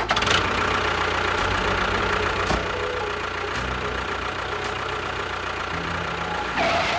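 A motor running steadily, with a dense mechanical whirr and a low rumble.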